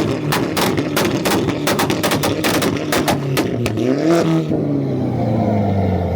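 Volkswagen Golf's engine held on a two-step launch limiter, firing rapid sharp bangs and pops from the exhaust, about three or four a second. About four seconds in, the popping stops and the engine revs once more, then falls back toward idle.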